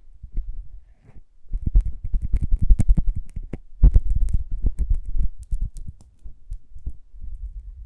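Lip balm handled right against an ASMR microphone: a dense run of soft, low thumps and crackles with a few sharp ticks, busiest in the middle.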